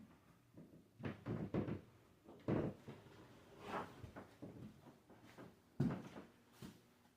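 Drywall knife working joint compound over taped drywall seams: irregular scrapes and knocks, several loud strokes about a second apart.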